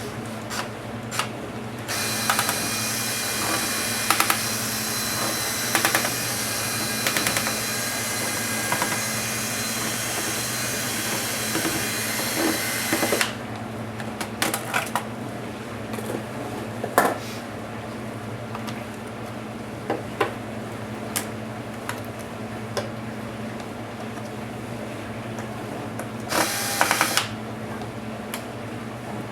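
Small electric screwdriver whirring steadily for about eleven seconds while laptop screws are driven out, then scattered clicks and taps of parts and tools, and a second short whir near the end.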